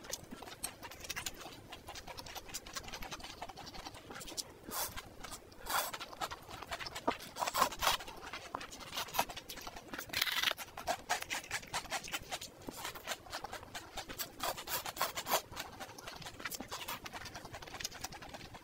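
Close-miked eating sounds: wet chewing and mouth clicks on spicy noodles, with crunching bites of a whole raw red onion, the loudest crunch about ten seconds in.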